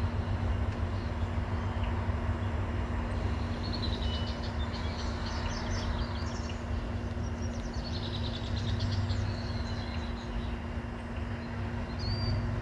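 Small birds chirping in runs of quick high notes, twice for a few seconds and once briefly near the end, over a steady low rumble and a faint steady hum.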